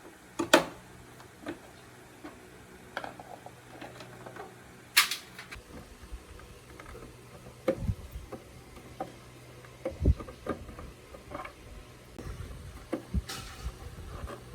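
Irregular light knocks and clicks of hard objects being handled, a few sharper ones among them, over a faint steady low hum.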